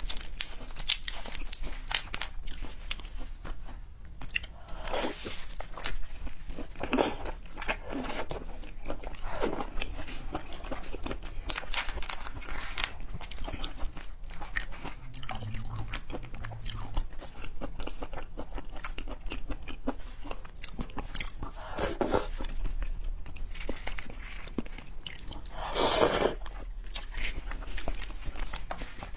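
Eating raw red devil shrimp: biting and chewing with frequent short crackles and crunches. A longer, louder noisy burst comes near the end.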